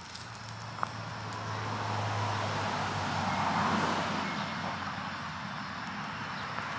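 A road vehicle going by, a steady rushing noise that swells to a peak about midway and eases a little afterwards, with a low hum in the first few seconds.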